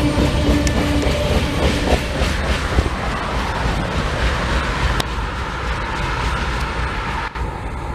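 Railroad cars rolling past on the track, wheels clattering over the rail joints. The sound eases off gradually toward the end.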